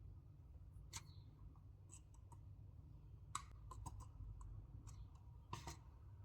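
Scattered small, sharp clicks and taps of hard parts being handled, about a dozen at uneven intervals, over a faint low hum.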